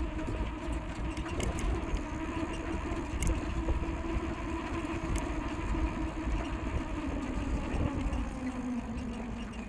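Wind rumbling on the microphone while riding a bicycle, with a steady hum underneath that slides down in pitch near the end.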